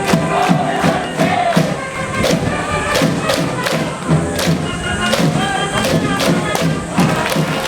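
A school cheering band playing a cheer song in the stands, with pitched instrument or voice lines over a steady drum beat of about three strokes a second.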